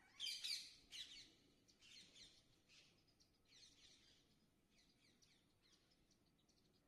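Birds chirping in quick bursts of high twittering calls, loudest in the first second, then fainter bursts that thin out to scattered ticks.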